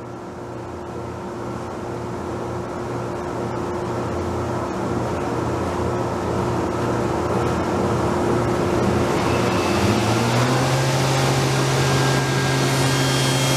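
A steady machine hum that grows gradually louder, with a tone stepping up in pitch about ten seconds in.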